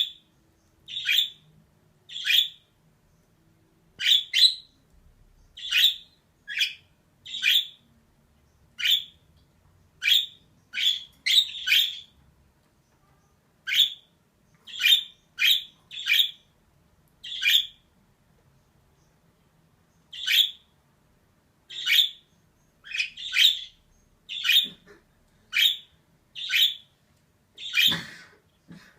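Female budgerigar calling in short, sharp chirps, about one a second, with a couple of pauses of around two seconds.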